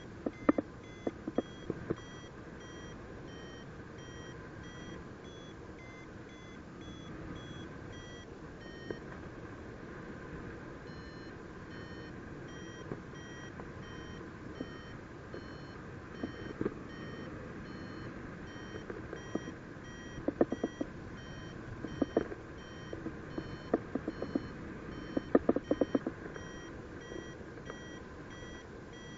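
Paragliding variometer beeping about twice a second, its pitch drifting up and down, the climb tone that signals the glider is in rising air; it pauses briefly and resumes. Under it, steady wind noise and scattered sharp clicks that bunch up near the end.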